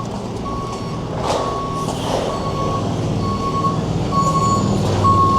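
A vehicle's reversing alarm beeping, a single steady tone repeated about once a second, over the low hum of a running engine.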